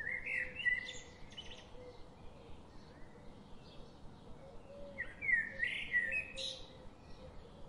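Songbird singing two short warbling phrases of quick rising and falling notes, one at the start and one about five seconds in, over a faint steady outdoor background.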